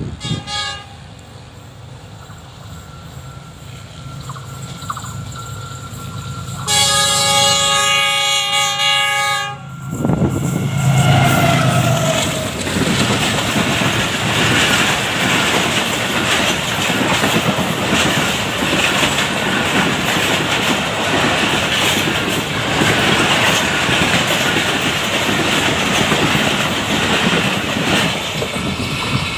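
A passenger train approaching with a rumble that builds, then sounding a loud horn with several tones held for about three seconds. After that its coaches roll past close by in a loud, steady rush of wheel and rail noise.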